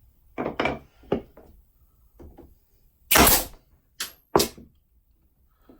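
A series of sharp knocks and thumps on wood, irregularly spaced. The loudest and longest comes about three seconds in, followed by two more close together about a second later.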